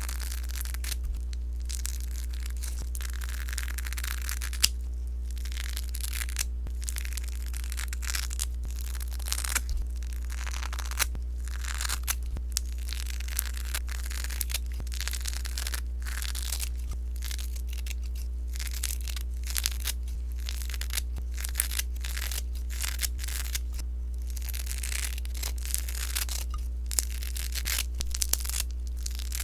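Crackly sponge slime being pressed and squished by hand, giving repeated bursts of crackling with small sharp pops and short pauses between presses, over a steady low hum.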